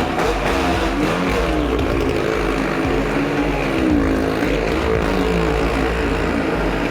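Motorcycle and car engines running together around the wall of a well-of-death pit, several engine notes overlapping, their pitch rising and falling in waves as the vehicles circle.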